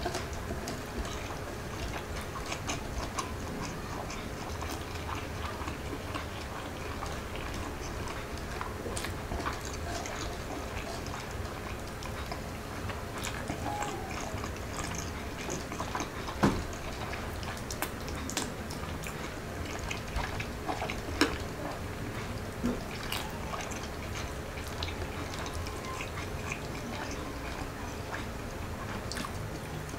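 Close-up eating sounds: chewing, lip smacks and wet mouth clicks from a person eating beef chao fan and siomai by hand, with the fingers handling the rice. There are irregular soft clicks throughout and two sharper taps about halfway through, over a steady low hum.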